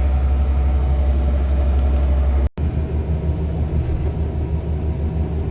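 Backhoe's diesel engine running steadily. About halfway through the sound cuts out for an instant, and after that the engine note pulses evenly.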